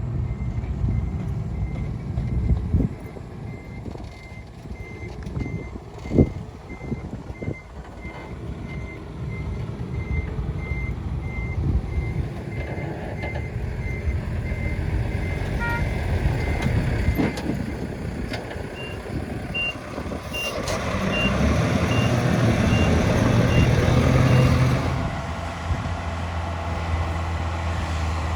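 Diesel earthmoving machines running with a reverse alarm beeping about twice a second. Later a second, higher-pitched reverse alarm beeps for several seconds while the engine noise grows louder, then eases. A few heavy clunks sound along the way.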